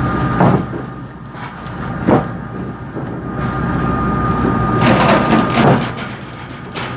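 Machinery of a squid-jigging boat running steadily: a low hum with a thin whine over it, broken by several sharp clattering knocks.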